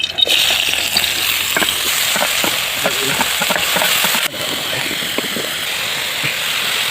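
Food frying in a hot pan: a steady sizzling hiss with small crackles that starts abruptly and dips briefly about four seconds in.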